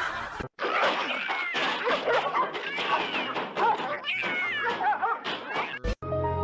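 Cats meowing and yowling: many short calls that bend up and down in pitch, several overlapping at once.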